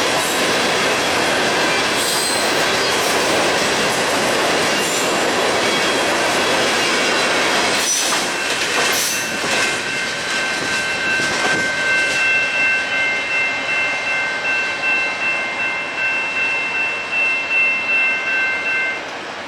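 Railcars of a ballast train rolling past, with a regular clickety-clack of wheels over rail joints. About halfway in, a thin, high, steady wheel squeal sets in and holds almost to the end.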